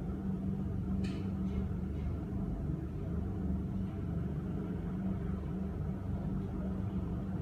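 Helicopter running, a steady low rumble with a constant hum under it; a brief higher hiss about a second in.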